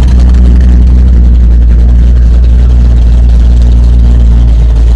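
Car engine idling steadily close by, a loud, even low hum.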